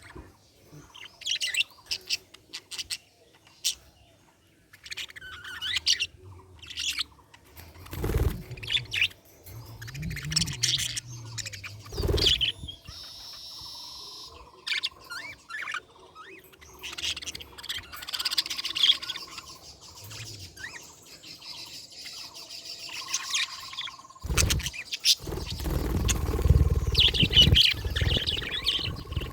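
Budgerigars chirping and warbling in short, scattered high calls, with a few sharp knocks and, near the end, a louder stretch of low rumbling noise.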